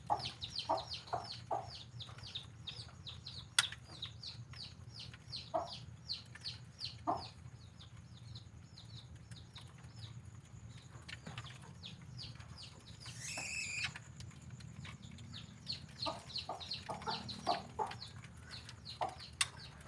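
White-rumped shama (murai batu) singing vigorously: a fast run of short, falling high notes, several a second, mixed with some lower notes and a brief fuller flourish about two-thirds of the way through.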